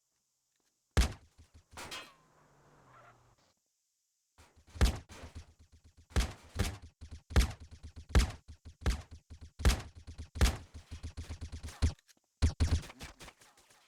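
A series of sharp knocks, the strongest coming about once every 0.8 seconds, with fainter quick clicks between them.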